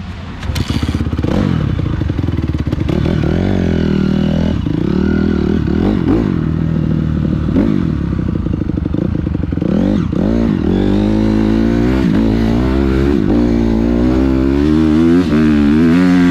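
Dirt bike engine being ridden on a motocross track, its revs rising and falling over and over as the throttle opens and closes.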